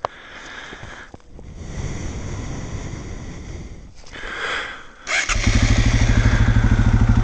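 Single-cylinder trail motorcycle engine starting about five seconds in and settling into a loud, even, pulsing idle. Before that there is only quieter rustling and handling noise.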